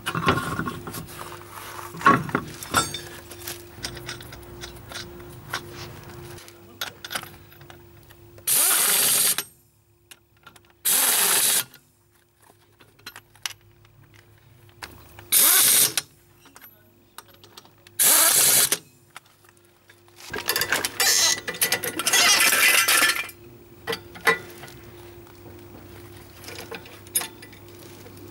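Wheel bolts being run in with a power tool in about five short bursts, the last one longer, after a few seconds of metal clinks as the wheel and bolts are handled.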